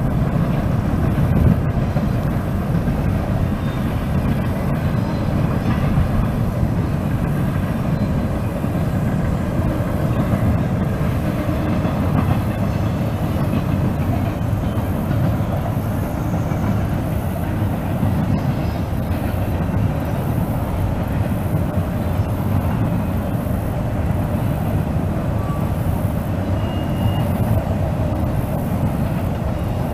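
A train rolling past, its cars making a steady low rumble on the rails.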